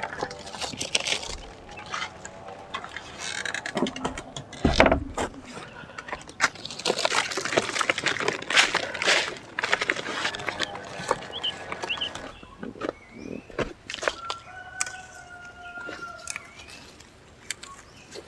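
Quail being taken from their cage: rattling and rustling of handling, a heavy knock about five seconds in, and a few short, high bird chirps past the middle.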